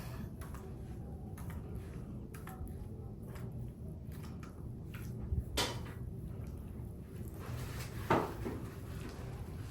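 Faint handling noises, small clicks and light knocks, over a steady low room hum, with two louder knocks about five and a half and eight seconds in.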